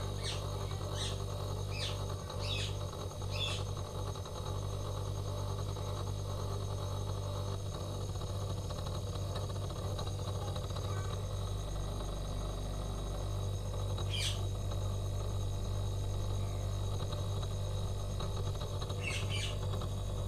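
Samsung single-door refrigerator compressor running with a steady low hum. Birds chirp briefly several times: a quick run over the first few seconds, once about two-thirds of the way through, and twice near the end.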